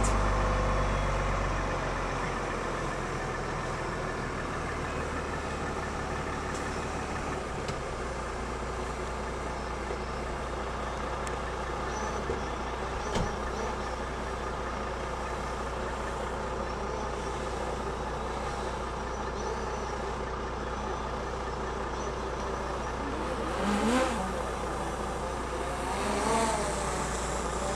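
Vehicle engine running steadily with a low hum and a constant hiss over it, with a brief louder rising sound at the very start and two short rising sounds near the end.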